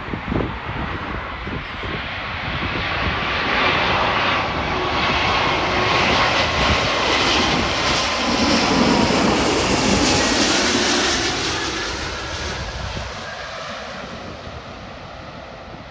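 Airbus A340 four-engine jet airliner passing on its landing approach. The engine roar builds to a peak about halfway through, with a faint whine falling in pitch, then fades away.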